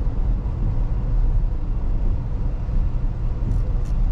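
Steady low road and tyre rumble inside the cabin of a 2022 Tesla Model X driving on a wet road in the rain, with no engine note. Near the end a faint, even ticking starts, a little over two ticks a second.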